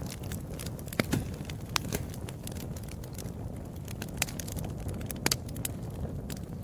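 Wood fire in a fireplace crackling, with irregular sharp pops over a steady low rumble of flame. The loudest pops come about a second in and just past five seconds.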